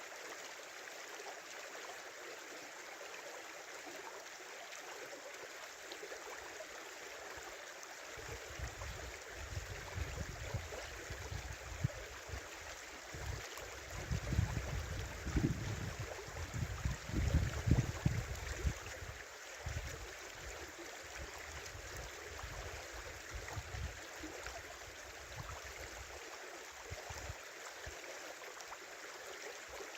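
Small winter river flowing, a steady rushing and gurgling of water. About a third of the way in, a low rumble starts coming and going in gusts, strongest around the middle, then fades out near the end.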